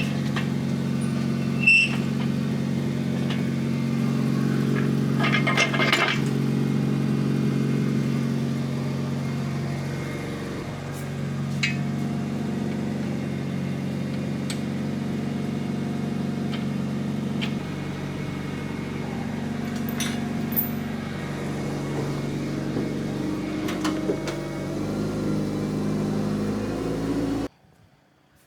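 Forklift engine running at a steady idle, with a few light metallic clicks and clanks over it. It cuts off abruptly near the end.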